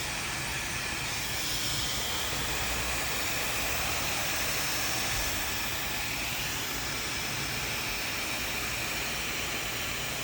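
Handheld hair dryer running steadily: an even rush of air with a faint high whine that drifts slightly in pitch, a little louder for a few seconds in the middle.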